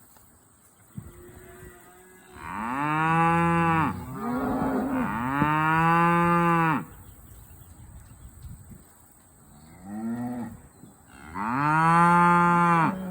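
Cattle mooing: four long, loud moos, each sliding down in pitch at the end, with a second animal's call overlapping between the first two and a fainter moo shortly before the last.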